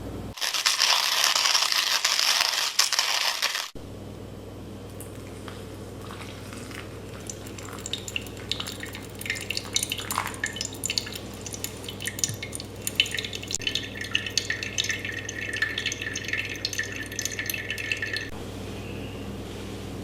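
Water running for about three seconds, then a long stretch of light, irregular dripping and crackling.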